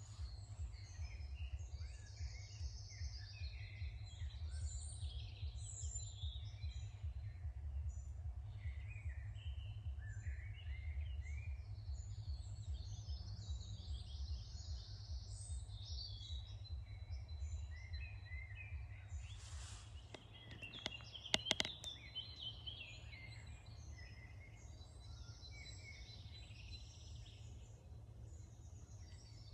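Dawn chorus of several songbirds, many overlapping chirps and trills, over a low rumble that fades about two-thirds through. A few sharp clicks come just after the rumble fades.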